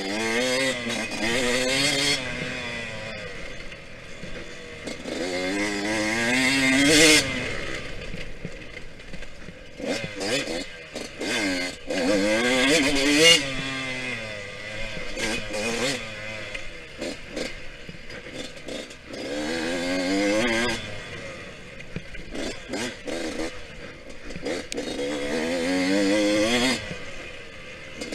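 Yamaha YZ125X two-stroke single-cylinder engine under race riding, revving up and dropping back several times as the bike accelerates, shifts and slows for corners, with chassis clatter.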